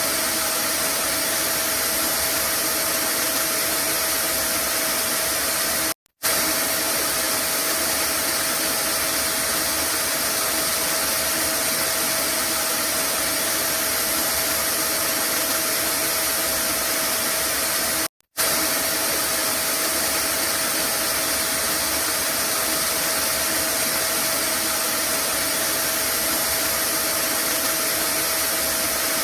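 Vacuum cleaner running steadily: a loud rushing hiss with a constant mid-pitched motor whine. It cuts out for a split second twice, about six and eighteen seconds in.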